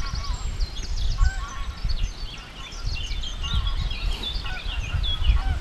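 Wind buffeting the microphone in gusts, with birds chirping and trilling throughout in quick, high notes.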